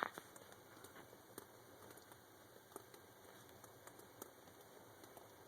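Near silence with a few faint, irregular taps of water dripping into puddles from a roof leaking in the rain.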